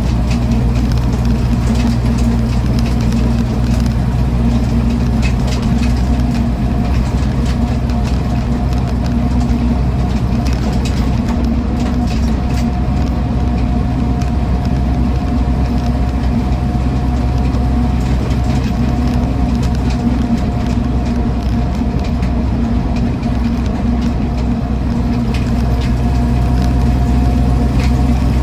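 1966 Land Rover Series IIa 88-inch soft top's 2.25-litre four-cylinder petrol engine running at a steady cruise, heard from inside the cab. Drivetrain noise and road noise from its aggressive-tread 6.00/16 tyres run with it.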